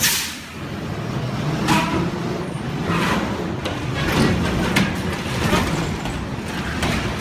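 Road vehicle noise with a sharp bang at the start and several more sudden knocks and crashes through the rest.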